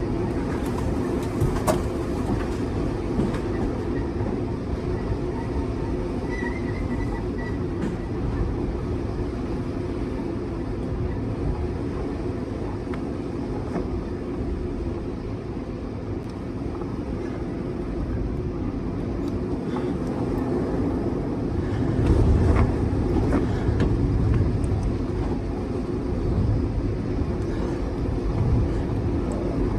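Strong wind gusts of a severe windstorm buffeting the microphone in a continuous low rumble, surging louder about two-thirds of the way through.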